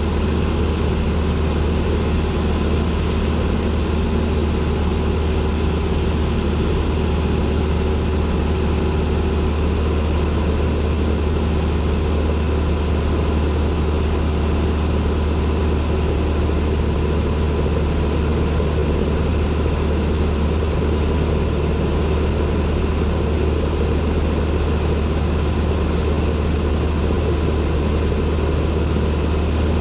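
Cessna 172N's four-cylinder Lycoming piston engine and propeller droning at a steady power setting, heard from inside the cockpit.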